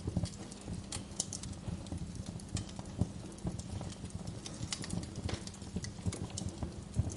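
Wood fire crackling in a fireplace, with irregular sharp pops and snaps over a low, steady rustle of burning.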